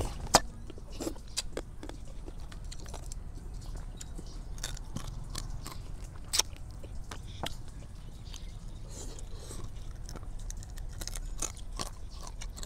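Close-miked chewing and crunching of raw rice-field crab salad, with wet mouth sounds and sharp crackling clicks as the crab shells break. The two loudest clicks come about a third of a second in and about six and a half seconds in.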